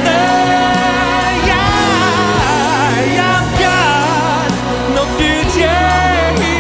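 Pop ballad song with a lead vocal holding long, wavering notes and runs over a full backing track.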